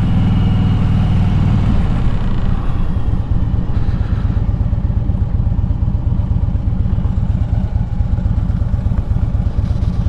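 2007 Harley-Davidson Street Glide's Twin Cam 96 V-twin engine running under way. It is steady for about two seconds, then turns to a rapid, even pulsing of firing beats.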